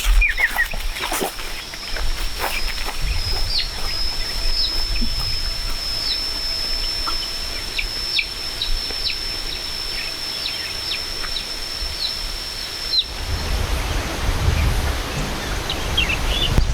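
Small birds chirping in short, quick falling notes over a steady high-pitched whine that stops near the end, with a low rumble during the last few seconds.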